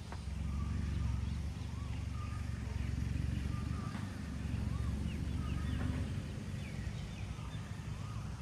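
Small birds chirping in short rising and falling notes, again and again, over a steady low rumble that gets louder about half a second in.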